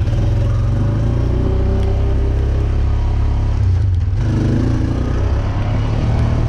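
Off-road vehicle engine running steadily, heard up close from the camera mounted on the vehicle.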